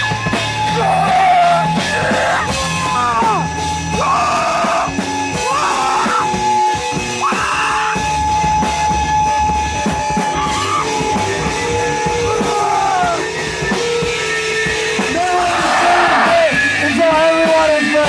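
Live punk noise performance: wordless yelled vocals that bend up and down in pitch, over a low droning bass and a steady high tone that cuts out about twelve seconds in.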